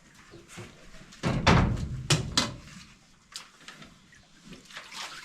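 Hard objects knocking and clattering: a heavy thud a little over a second in, then a few sharp knocks and fainter clicks.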